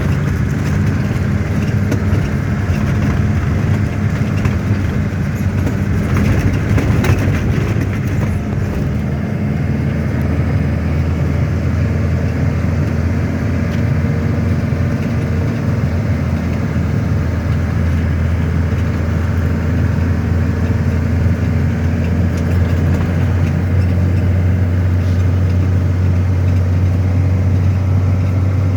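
A car running steadily, a continuous low engine and road rumble that grows a little stronger about a third of the way in.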